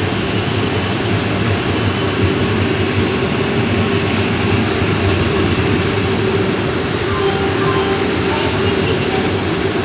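Vande Bharat Express train running at a steady speed: an even rumble and rush of noise with a constant hum under it that does not rise or fall.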